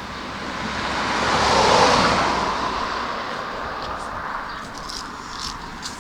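A road vehicle passing the bicycle: tyre and engine noise swells to a peak about two seconds in, then fades away.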